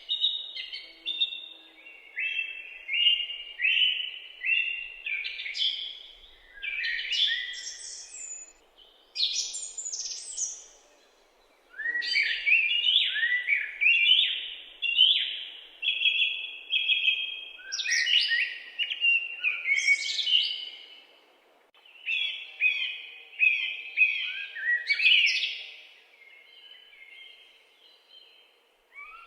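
Songbirds singing in phrases of quick chirps and trills, with brief lulls between phrases.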